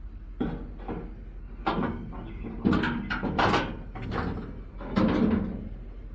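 A series of sudden clunks and knocks, about five in six seconds, the loudest a little under halfway through and again near the end, like a door or body panel of a rusty old car being handled.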